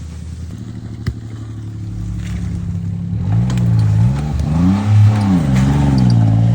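Off-road vehicle's engine running steadily, then from about three seconds in revving up and down again and again as it is worked over rough ground. A single sharp knock about a second in.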